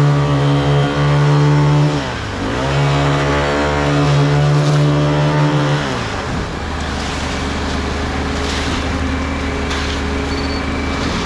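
Concrete truck's heavy diesel engine held at high revs, as when turning the drum to discharge. The revs dip briefly about two seconds in and come back up, then drop to a steady idle about six seconds in.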